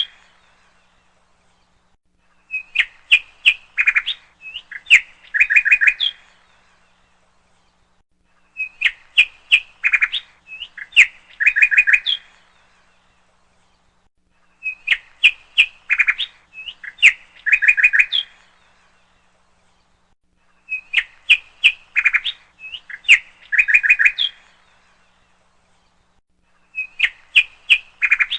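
Bird chirping: the same short phrase of sharp chirps and quick trills repeats identically about every six seconds, with silence between, like a looped bird-song recording.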